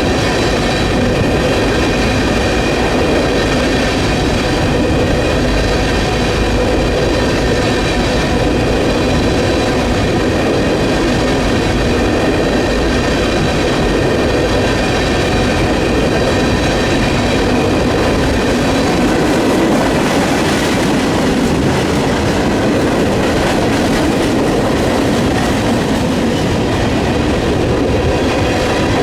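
Freight train cars rolling past on the rails: a steady loud rumble of steel wheels with faint steady ringing tones above it. Gusty wind buffets the microphone underneath.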